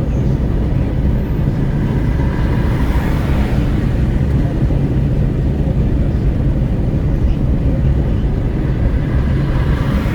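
Steady wind buffeting and road rumble of a Renault Kwid 1.0 at highway speed with the window open. The noise swells briefly about three seconds in and again near the end.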